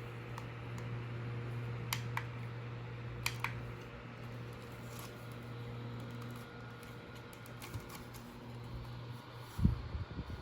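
Mini USB fan running with a steady motor hum and airflow hiss. A few sharp clicks come in pairs about two and three and a half seconds in, and a thump near the end.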